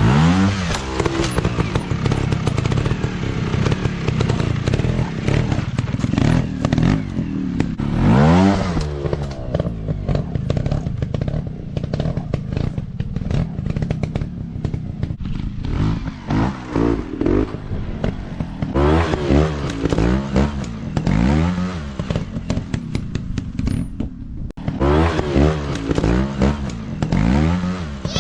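Off-road dirt bike engines running under hard riding, revving up and dropping back again and again, with clattering and knocks over a steady low rumble.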